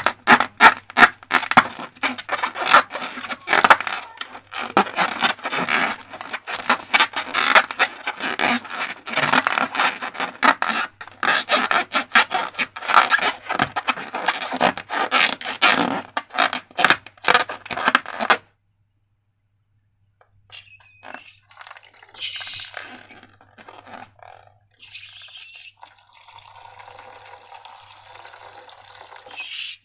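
Slime-making handling sounds: rapid crackling and scraping for most of the first two-thirds, then a short break, then quieter scraping with wet, liquid sounds.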